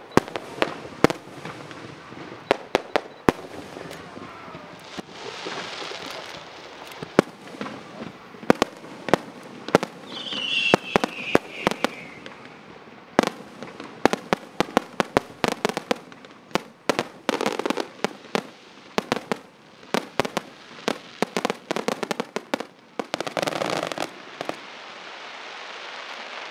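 Aerial fireworks display: many sharp bangs of shells bursting overhead, coming in quick succession, with crackle between them. A brief falling whistle sounds about ten seconds in.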